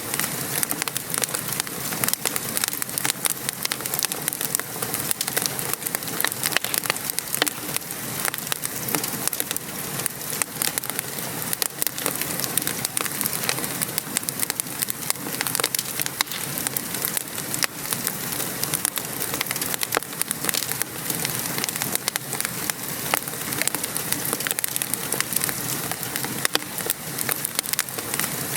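Steady patter of rain with a wood fire crackling, its many small sharp pops scattered throughout.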